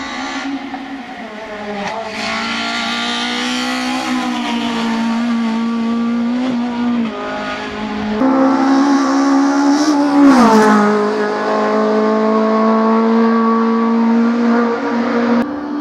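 Racing Renault Clio RS III's 2.0-litre four-cylinder engine revving hard as the car accelerates away, its pitch climbing through the gears and falling with each shift, with a sharp drop in revs about ten seconds in.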